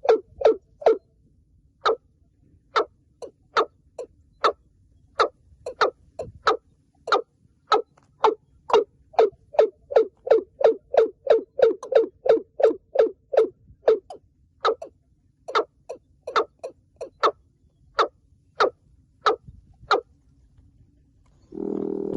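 Watercock calling: a long run of short, hollow knocking notes, irregularly spaced and quickening to about three a second in the middle before slowing again. Just before the end comes a brief low humming note.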